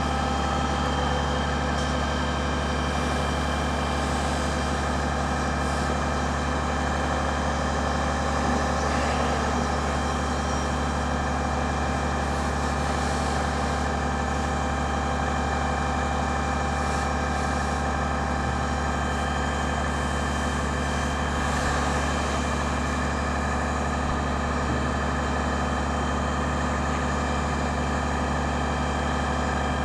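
Fire truck engine running at a steady speed, a constant low drone with no change in pitch.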